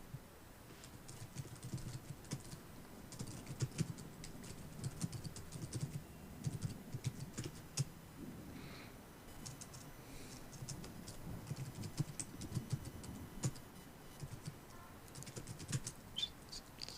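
Typing on a computer keyboard in short bursts of quick clicks, with pauses between them, over a low, steady background of rain and city ambience.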